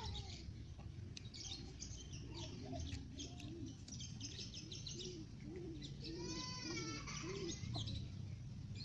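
Faint bird chirping, with a row of short low calls and one longer drawn-out call about six seconds in.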